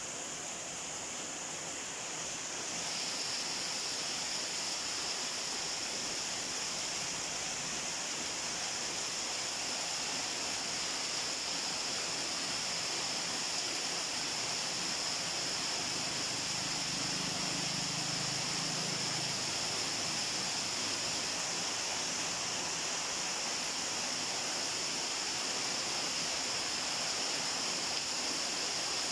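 Steady rain falling, an even hiss that grows louder about three seconds in and then holds.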